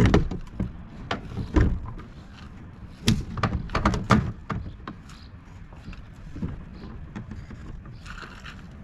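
Hollow knocks and clunks as a kayak pedal drive is handled and set into the kayak's hull. There is a cluster of knocks at the start, another burst about three to four seconds in, and a single knock later.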